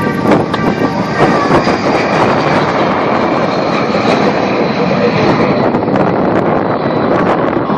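Jet engines of the Black Diamond Jet Team's L-39 Albatros trainers running loud in a steady, dense noise as the formation flies after takeoff, with a faint high whine over it.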